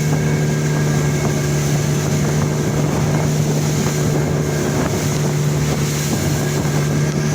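Speedboat outboard engine running at a steady speed, a constant hum under the rush of water and wind buffeting the microphone.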